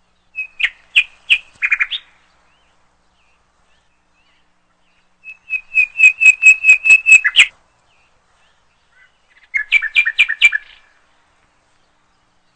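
A small bird chirping in three quick bursts of rapid, evenly repeated high notes, with silence between the bursts. The middle burst is the loudest and longest.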